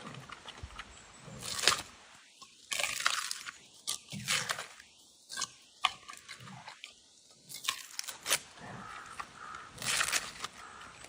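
Giant panda chewing bamboo: irregular crunching with sharp cracks every second or two as the stalks split between its teeth.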